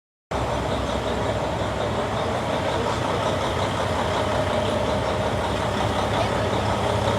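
A vehicle engine idling steadily with a low hum, cutting in abruptly just after the start.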